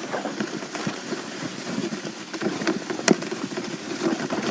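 A sled sliding down a snowy hill, a steady scraping hiss over the snow broken by many small knocks from bumps, with one sharper knock about three seconds in.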